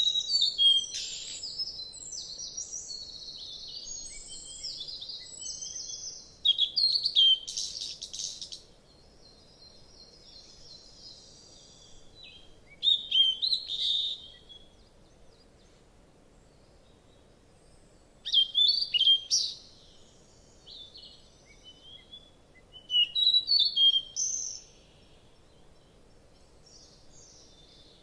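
A bird chirping and singing in short bursts of quick high notes, about five phrases a few seconds apart, with softer twittering between the first two.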